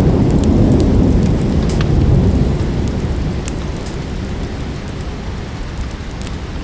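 A low rumble of thunder that fades away after about three seconds, over steady rain, with scattered sharp pops and crackles from a wood fire.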